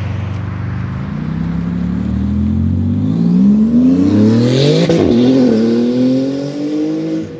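A car accelerating hard, its engine pitch rising steadily for several seconds. It is loudest as it passes about five seconds in, where the pitch briefly dips, then holds higher until the sound cuts off suddenly.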